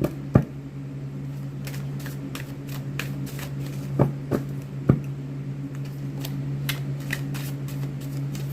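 A tarot deck being shuffled and handled: a run of light papery clicks with a few sharper knocks, over a steady low hum.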